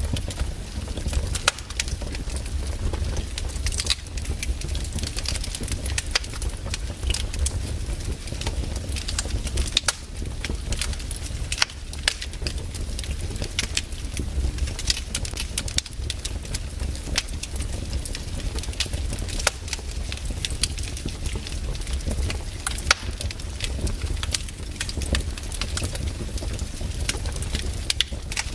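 Campfire burning: wood crackling with frequent, irregular sharp pops over a low steady rumble.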